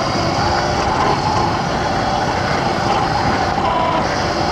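X Pro dirt bike's engine running at steady revs in second gear while riding, with noise filling the low end.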